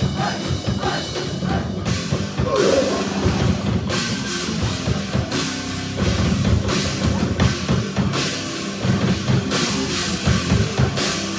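A rock band playing loud, heavy rock music, with the drum kit driving the beat and cymbal crashes.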